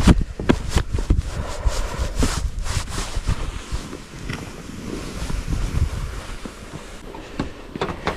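Wind rumbling on the microphone, with irregular knocks and scrapes that are busiest in the first three seconds and thin out after about four seconds.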